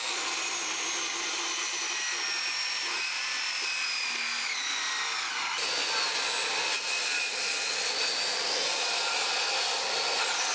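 Power saw cutting through a log: a steady motor whine over a rasping hiss, the whine's pitch sagging slightly as the blade works through the wood.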